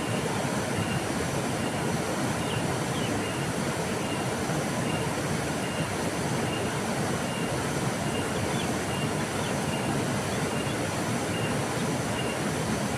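River water flowing in a steady, unbroken rush. A faint, short high chirp repeats at an even pace, less than a second apart.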